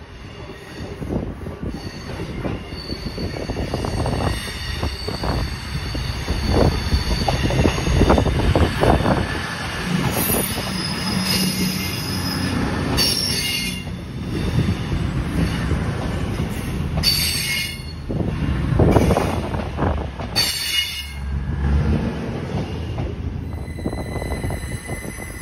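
A diesel multiple-unit passenger train runs slowly past at close range with a steady low rumble of engines and wheels on the rails. Several short, high-pitched wheel squeals come between about ten and twenty seconds in as it rounds the curve.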